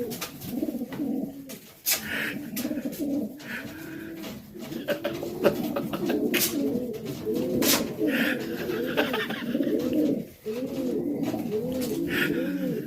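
Several racing pigeons cooing together, their rising-and-falling coos overlapping one another, with scattered sharp clicks and taps among them.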